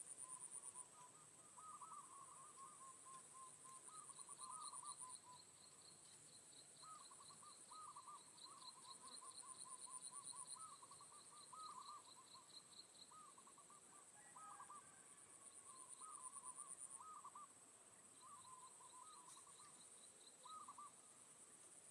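Faint runs of short, repeated bird calls, with a high-pitched insect trill pulsing in stretches of a few seconds.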